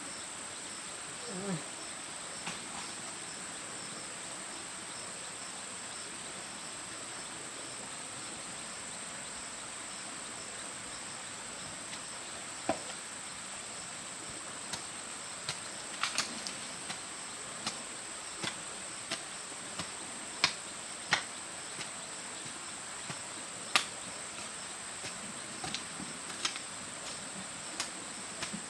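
Insects, crickets or similar, keep up a steady high-pitched drone. From about halfway through, sharp knocks and taps come at irregular intervals.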